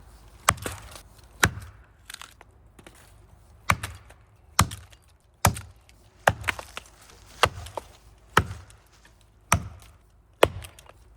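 Axe chopping into a big maple trunk: about a dozen sharp strikes roughly a second apart, cutting out the face of a felling notch.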